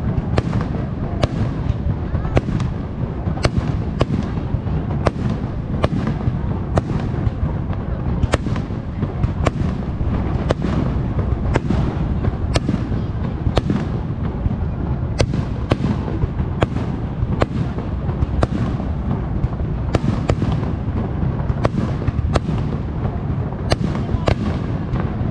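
Aerial firework shells bursting in rapid succession, about one to two sharp bangs a second, over a continuous low rumble of overlapping booms and echoes.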